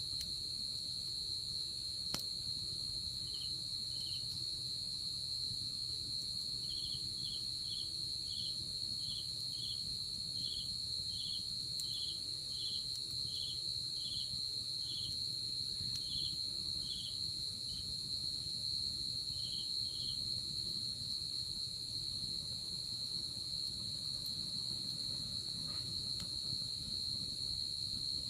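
Night insects calling: a steady, continuous high trill, with a second insect chirping regularly, a little more than once a second, from a few seconds in until about two-thirds of the way through.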